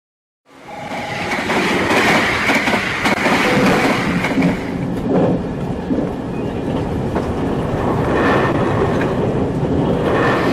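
Train running on rails, wheels clicking over the track, fading in from silence about half a second in and then running steadily.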